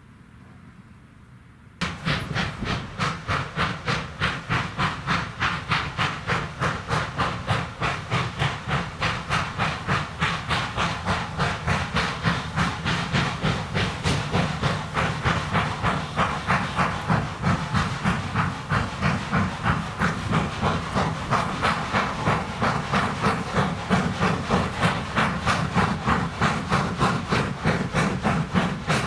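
Steam locomotive chuffing: a steady run of sharp exhaust beats, about four a second. It starts suddenly about two seconds in and keeps going evenly.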